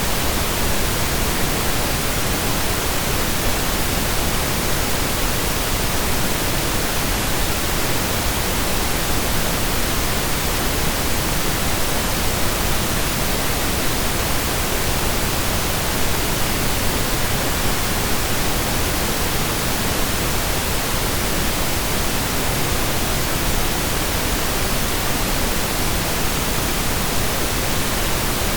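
Synthesized pink noise: a steady, even hiss spread evenly across the whole range, with no changes.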